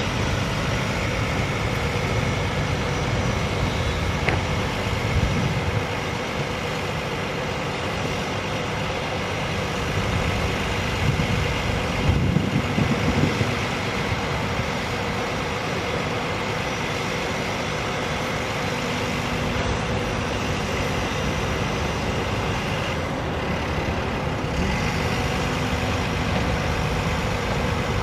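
Diesel engine of a 2005 International 7300 truck, an International DT466, running steadily, with a brief rise in level about twelve seconds in.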